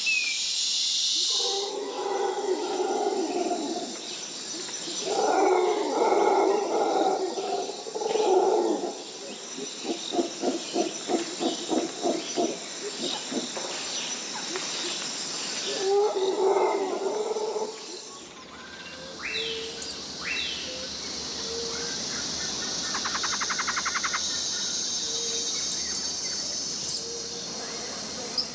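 Rainforest ambience: a large wild animal's loud, rough calls in long bouts, with a run of quick pulsed grunts about three a second between them. About two-thirds of the way in the sound changes abruptly to a steady high insect drone with short bird chirps and a fast trill.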